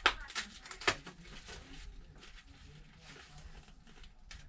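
Bench handling noises during a tablet repair: two sharp clicks about a second apart, then faint scattered rustling and ticking.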